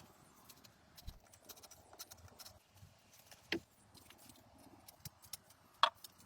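A few isolated sharp knocks over a quiet background: a low thump about a second in, louder knocks in the middle and near the end, and faint ticks between.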